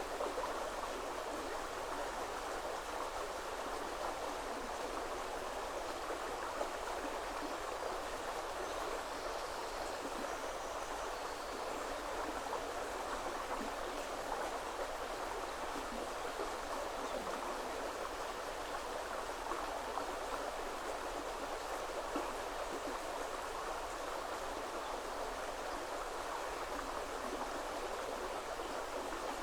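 Woodland river flowing: a steady, even rush of moving water.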